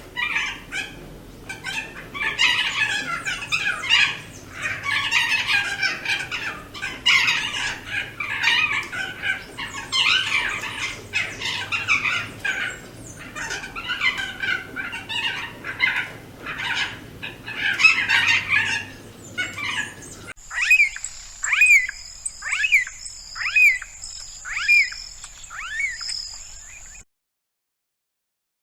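Wild birds singing: about 20 seconds of dense, overlapping chattering calls, then, after a cut, a single bird repeating a short curved whistled note about six times over a steady high tone. The sound stops dead near the end.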